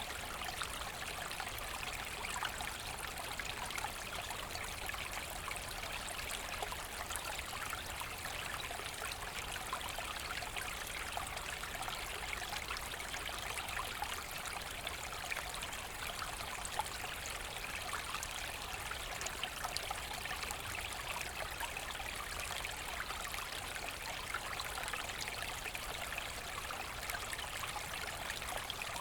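A small forest brook running and splashing steadily over stones.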